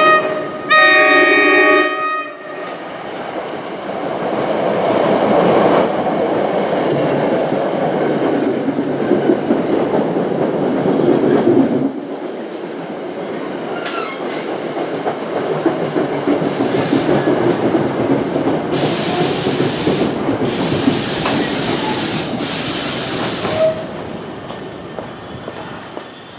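NJ Transit commuter train arriving: its horn sounds twice at the start, a short blast then a longer one. The train then rolls in along the platform with a steady rumble and rattle of cars and wheels. Near the end come three loud hisses as it slows to a stop.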